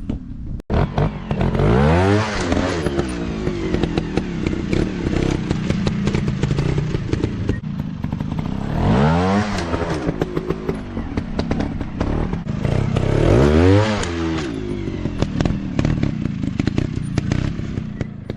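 Dirt bike engines running hard, revving up and back down three times, with much rattling and clattering over the engine sound.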